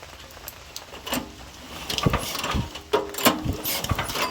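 Recoil pull-starter of a go-kart's small engine pulled several times with the spark plug out, the cord and ratchet pawls clattering as the engine spins over freely, to check that the plug makes spark.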